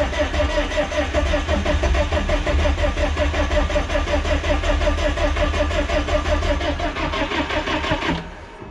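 Starter cranking a four-cylinder Perkins diesel in an old loader, turning it over in a steady, even rhythm without it catching; the cranking stops near the end.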